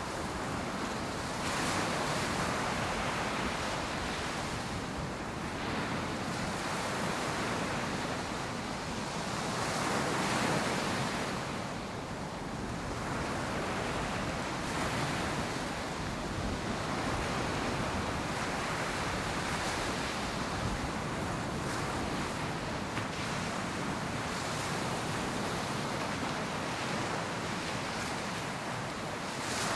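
Ocean surf: waves breaking and washing up the beach in a continuous hiss, swelling and easing every few seconds, with some wind on the microphone.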